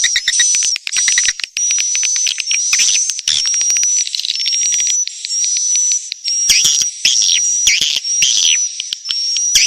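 Swiftlet lure call: a dense chatter of edible-nest swiftlet chirps and rapid clicking over a steady high whistle-like tone, the sound played in swiftlet houses to draw the birds in to nest.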